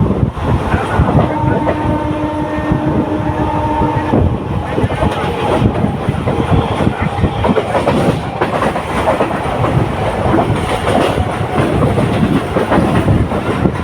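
Local passenger train running along the track, the wheels clicking over rail joints, with a steady pitched hum held for about three seconds near the start.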